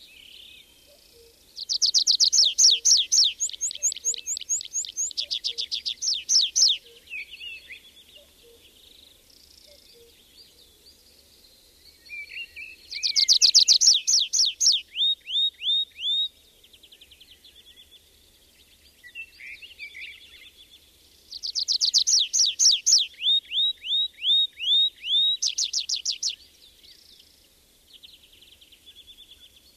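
Birdsong: a songbird sings three loud phrases of rapid, repeated downward-sweeping high notes, each lasting about four to five seconds. Fainter bird chirps fill the pauses between them, and a faint low two-note call repeats through the first few seconds.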